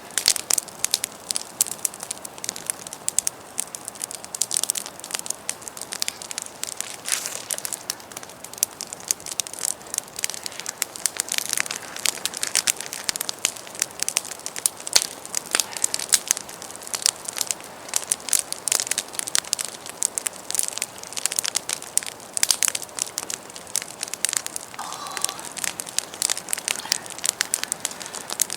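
Campfire burning rotten, damp firewood, crackling continuously with many sharp pops and snaps.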